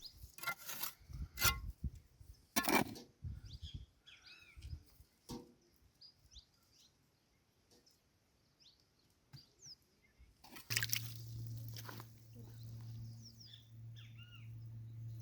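Small birds chirping faintly, short high chirps scattered through the middle. A few sharp knocks come in the first three seconds, and near the end a steady low hum with a hiss starts up.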